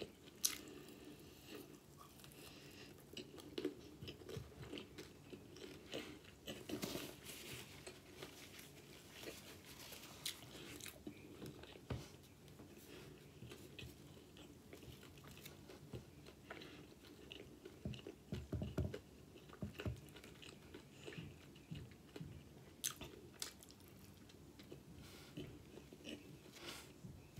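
Close-up chewing and biting of fried chicken wings: scattered crunches, wet mouth clicks and smacking, with a louder run of chewing about two thirds of the way through.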